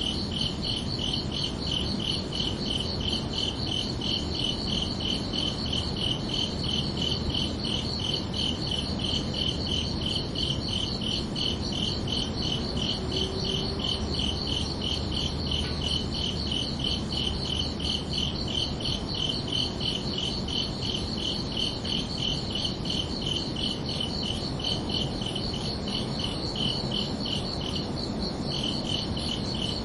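Crickets chirping in a steady, even rhythm of high-pitched pulses, with a brief break near the end, over a low background hiss.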